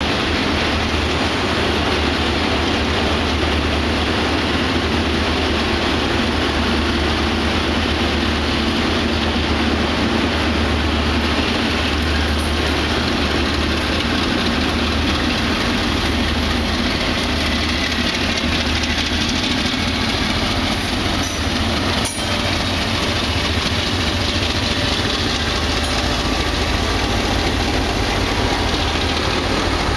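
DF11 diesel-electric locomotive's diesel engine running under load with a steady low drone as it pulls the train past, strongest in the first half. Then the passenger coaches roll past, their wheels making a steady rushing noise on the rails.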